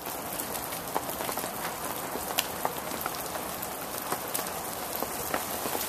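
Steady rain falling, an even hiss with scattered sharp ticks of drops striking near the microphone.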